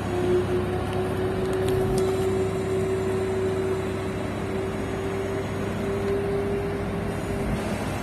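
Steady mechanical hum with one unchanging tone, like a fan or ventilation unit running, and a faint tick about two seconds in.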